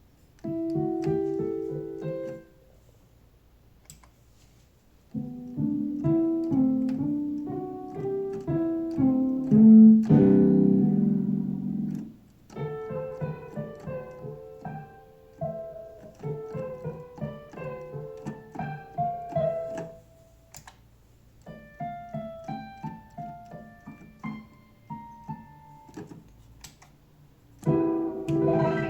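Korg Karma keyboard with a piano-like patch, played through an Eventide H3000 effects processor: short phrases of notes and chords, broken by brief pauses, with the loudest chord about ten seconds in.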